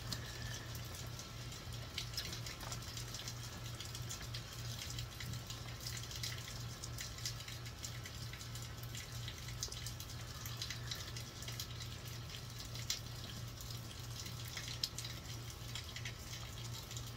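Steady rain falling, with many small drops dripping and ticking, over a low steady hum.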